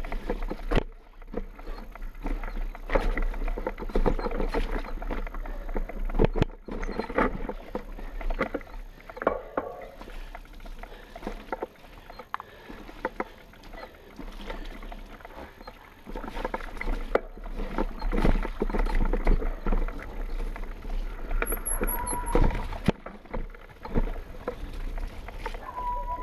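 Mountain bike riding down a rough, wet trail, heard from the bike's GoPro: a steady rushing noise with frequent knocks and rattles as the bike goes over bumps. There is a brief squeal near the end.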